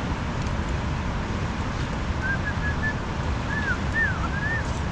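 A steady low rushing noise, with a run of short, high chirping calls from about two seconds in to near the end, some of them swooping up and down.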